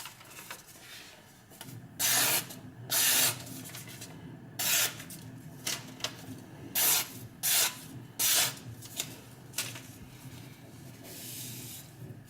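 Steel knife blade drawn across an oiled fine-grit sharpening stone: a series of short scraping strokes, about eight, irregularly spaced roughly a second apart, made with light pressure.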